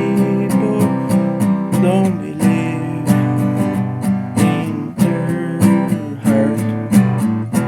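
Folk song music: an acoustic guitar strummed in a steady rhythm.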